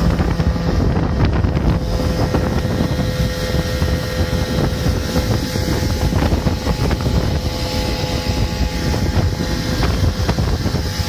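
Mikatsu 9.8 two-stroke outboard motor running steadily as a PVC inflatable boat moves over the water, with wind buffeting the microphone.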